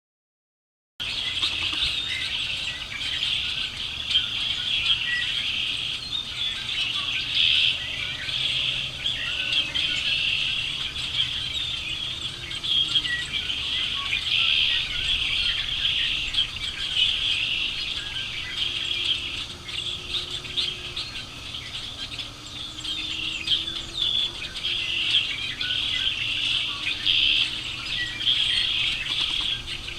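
A dense chorus of many small birds chirping and singing at once, a steady mass of overlapping high calls that starts suddenly about a second in.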